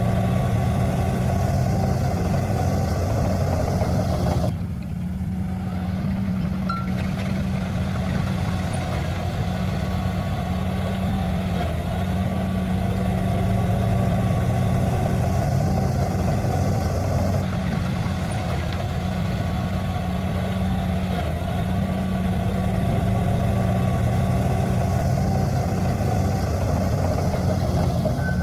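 Diesel engine of a heavy earthmoving machine running steadily, with an abrupt change in the sound about four seconds in.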